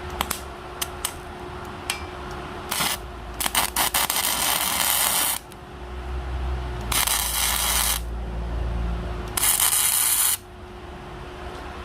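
Arc welding: the arc crackles and hisses in four short runs of about one to two seconds, each cut off sharply, as heavy beads are laid on a steel H-beam. A few sharp metal clicks come in the first second.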